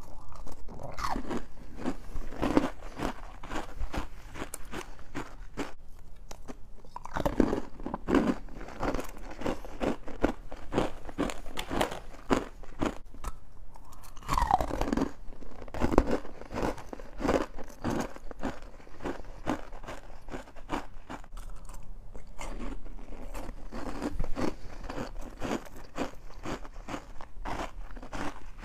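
Close-up crunching and chewing of juice-soaked freezer frost: a dense, continuous crackle with a few louder bites along the way.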